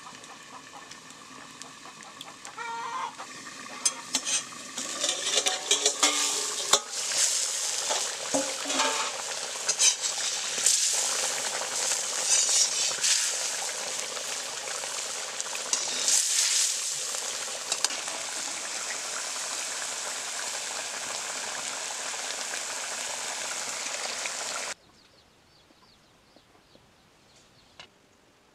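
Chicken gravy sizzling and frying in an iron kadhai while a metal ladle stirs and scrapes the pan, with clicks and knocks of the ladle against the iron. A hen clucks a few times near the start. The sizzling cuts off suddenly a few seconds before the end, leaving near silence.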